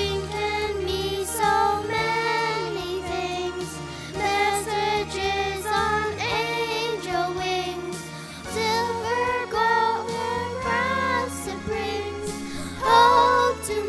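A song: voices singing a melody over instrumental accompaniment.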